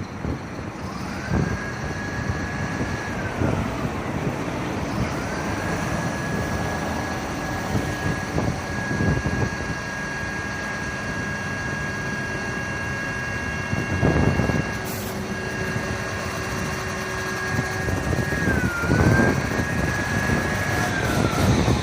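Fire engine siren wailing: it winds up to a steady high wail, winds down, then rises again and holds for a long stretch before winding down near the end. Truck engine and road noise run underneath.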